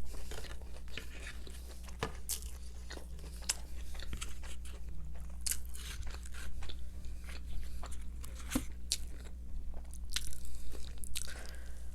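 Close-miked biting and crunchy chewing of Popeyes fried chicken, with irregular crackles and crunches.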